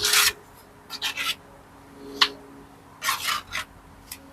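Trowel scraping and working mortar against stone and brick: about five short, rasping scrapes, the first and loudest right at the start.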